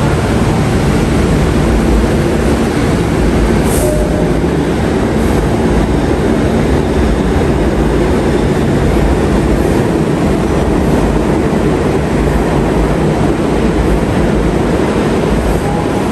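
New York City subway train running through a station with a loud, steady rumble, and a single sharp click about four seconds in.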